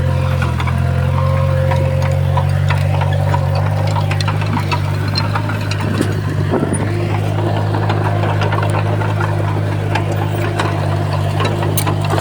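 Komatsu bulldozer's diesel engine running steadily, with scattered clanks and knocks through it.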